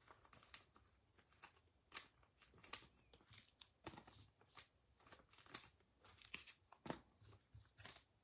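Faint, irregular clicks and light rustles of trading cards being handled and sorted by hand, a few small ticks a second.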